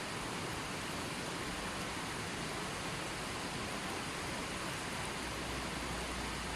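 Running water flowing steadily, a constant even rush with no distinct splashes or breaks.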